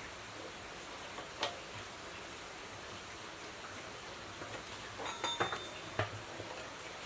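A steady hiss with a few light clicks and taps: one about a second and a half in, a small cluster around five seconds in, and one more a moment later.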